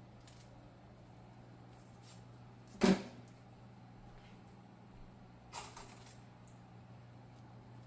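Kitchen handling sounds: one sharp knock about three seconds in and a softer one a few seconds later, over a steady low hum.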